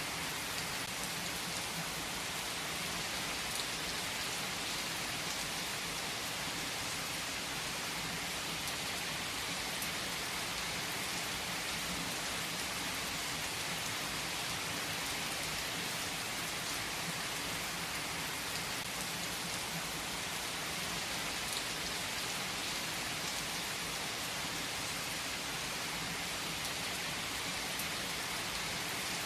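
Steady rain falling: an even, unbroken hiss with now and then a single drop ticking.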